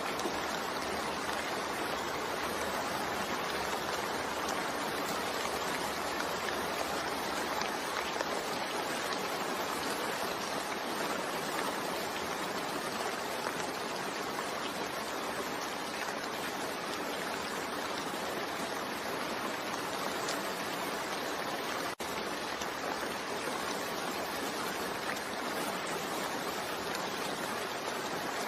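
Continuous rain mixed with white noise: a steady, even hiss with no change in level, broken only by a momentary dip about two-thirds of the way through.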